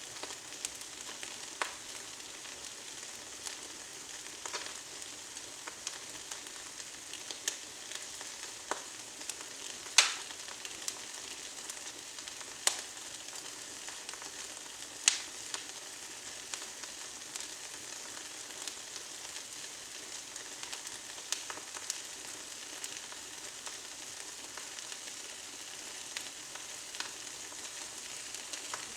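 Twig fire burning in a fireplace: a steady hiss with scattered crackles and sharp pops, the loudest pops about ten, thirteen and fifteen seconds in.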